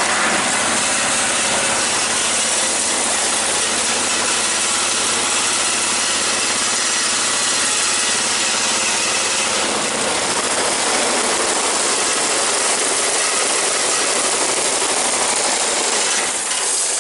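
Garden tractor engine running steadily just after a cold start, then shut off near the end.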